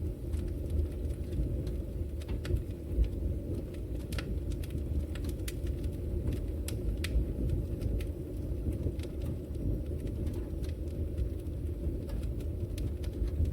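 Wood fire burning in a brick fireplace: a steady low rumble of flames with frequent sharp, irregular crackles and pops.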